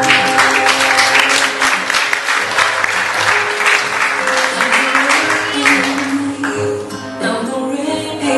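Audience clapping over a song with guitar; the clapping dies away about six seconds in, leaving the music.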